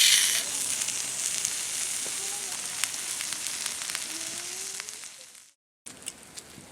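Food sizzling in a hot pan: loudest at the start, then a steady sizzle that fades and stops abruptly about five and a half seconds in.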